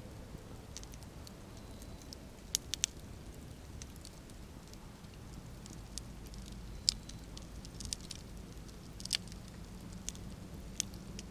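Campfire crackling, with scattered sharp pops and snaps over a low steady rumble of the burning fire.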